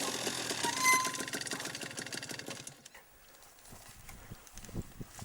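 Small two-stroke motocross bike engine running with a rapid, even stutter, fading away about three seconds in, after which only a few faint clicks remain.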